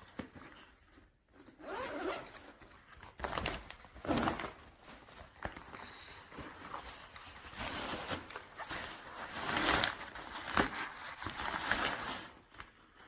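Zippers on a fabric travel backpack being pulled open and shut, several separate zipping strokes of varying length.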